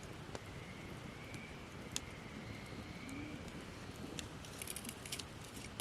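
Wood campfire of gathered branches crackling: scattered sharp pops, with a quick cluster of fine crackles near the end.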